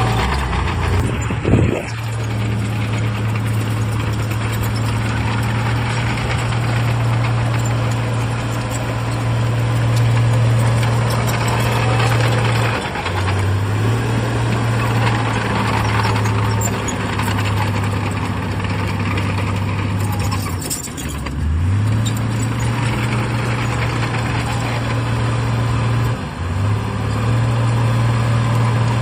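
Heavy diesel earthmoving machine engine running steadily under load. Its revs dip briefly three times, about 13, 21 and 26 seconds in, and pick up again each time.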